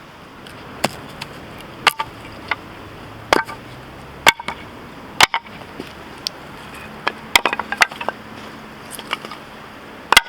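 Husqvarna hatchet chopping and splitting firewood: a dozen or so sharp wooden strikes at irregular intervals, some coming in quick clusters.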